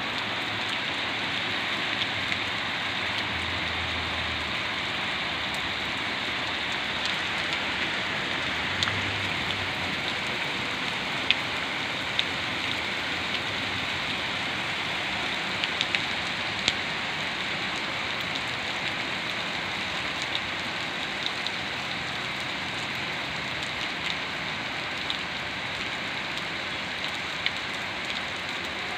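Steady rain falling, with occasional sharp drip ticks on top.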